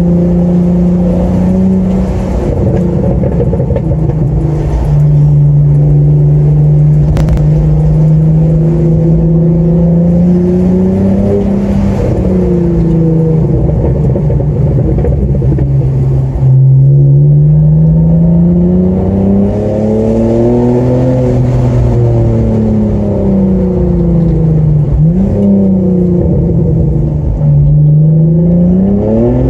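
BMW E46 330Ci's 3.0-litre straight-six running through an exhaust with the rear silencer (back box) deleted, heard from inside the cabin while driving. The engine note holds steady at first, then rises and falls several times as the car accelerates and eases off, with a steep climb near the end.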